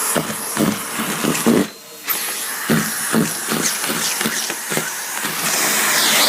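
Numatic Henry cylinder vacuum cleaner running with a steady airy hiss, with irregular knocks and rattles as hard sweets are sucked up; the hiss briefly drops about two seconds in.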